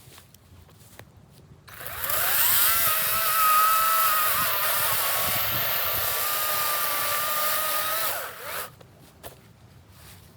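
EGO 56-volt battery chainsaw's electric motor spinning up with a rising whine about two seconds in, running for about six seconds with slight dips in pitch, then winding down near the end.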